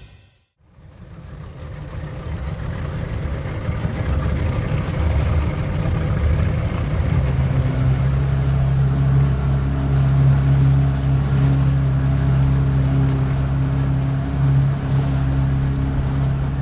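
Boat motor running steadily. It fades in over the first couple of seconds, and its low hum grows stronger and more even about seven seconds in.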